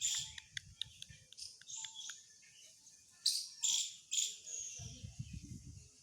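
Birds chirping: many short, high calls and twitters overlapping, with a low rumble about five seconds in.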